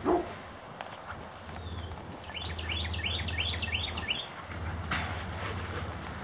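A songbird singing a quick run of about eight high, down-slurred whistled notes in the middle, over a steady low wind rumble on the microphone. A short loud call sounds right at the start, and there is rustling about five seconds in.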